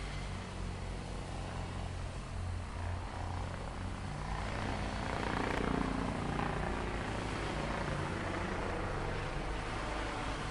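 Heavy machinery engine running with a steady low rumble, growing louder and noisier about five seconds in.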